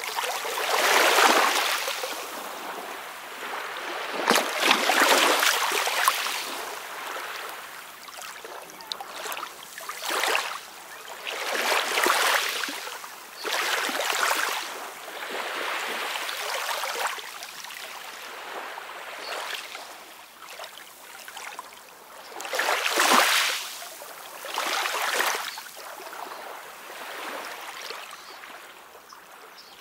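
Small waves splashing and lapping at the water's edge, recorded close, each splash swelling and fading every one to three seconds, with a light burble between them.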